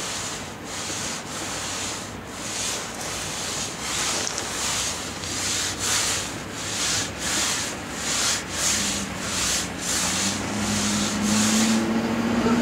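Arms and legs sweeping back and forth through fresh snow to make a snow angel: rhythmic swishing, about one and a half strokes a second. A low steady hum comes in near the end.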